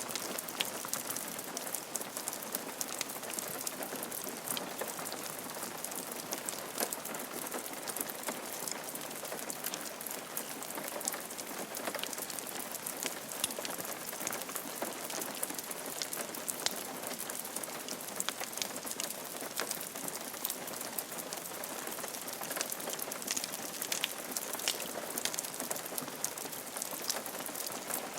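Steady rain falling on a roof, an even hiss with many individual drops ticking through it.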